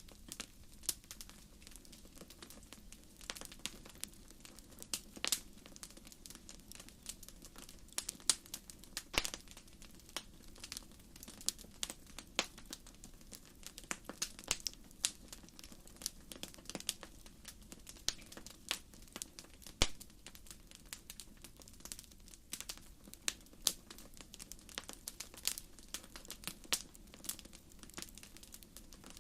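Wood fire crackling: irregular sharp pops and snaps of burning firewood, several at a time, with a few louder pops, over a soft steady hiss of the flames.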